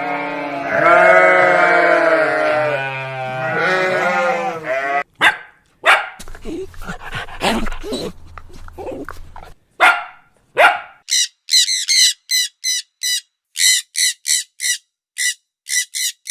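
A run of different animal calls: first a long, wavering, pitched call lasting about five seconds, then a scatter of short, sharp calls, and from about eleven seconds in a fast series of short high chirps, roughly three a second.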